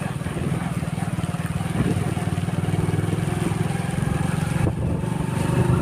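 Motorcycle engine running steadily while riding, a low, even pulsing.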